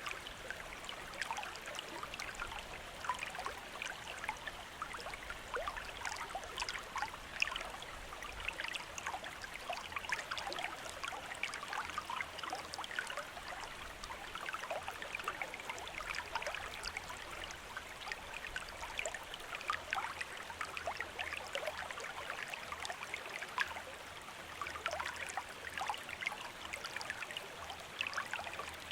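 Small stream running over stones, a steady babble of many small splashes and gurgles.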